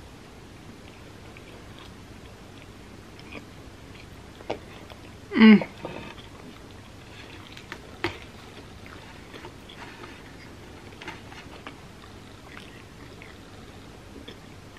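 Close-miked chewing of pizza crust, with scattered soft mouth clicks. About five seconds in there is one short, loud pitched throat sound.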